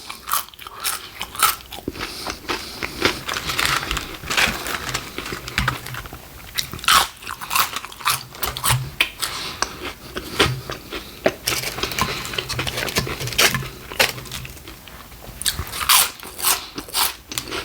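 Close-miked chewing and biting, with frequent crisp irregular crunches of a mouthful of Taco Bell nacho fries.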